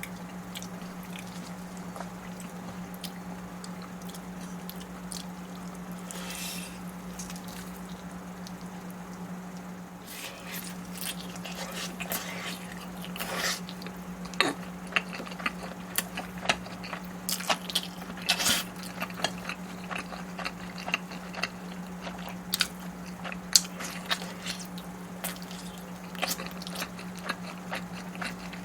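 Close-up eating sounds: biting and chewing food, with sharp wet clicks and smacks that come thick and fast from about ten seconds in. A steady low hum runs underneath.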